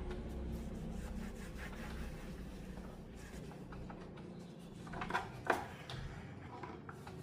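Rubbing and scraping of hands working on small parts, with light clicks and two sharper clicks about five seconds in.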